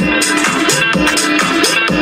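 Electronic dance music with a steady beat and a looping synth line, played loud through a car audio system with a Pioneer subwoofer and 15-inch bass bin.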